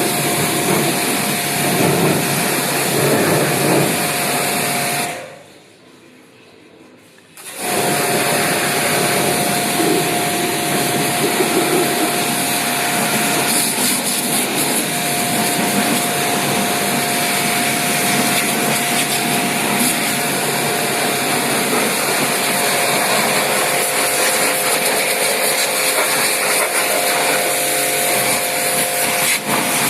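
An electric machine runs with a steady whine over a rushing noise. It cuts out about five seconds in and starts again about two seconds later.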